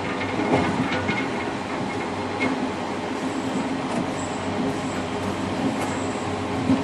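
Passenger train running, heard from inside the rear car's cab: a steady rumble of wheels on rail with scattered clicks. A faint high squeal runs from about three seconds in to near the end.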